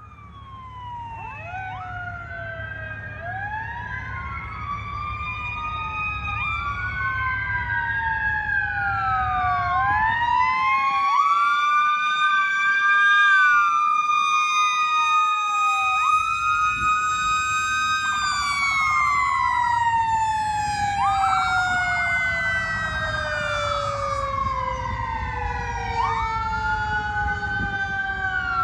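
Fire engine responding under sirens, getting louder over the first dozen seconds as it approaches. Electronic sirens wail up and down in overlapping cycles. A mechanical Federal Q siren winds up, holds a high note, then coasts down in a long falling tone, all over a low engine rumble.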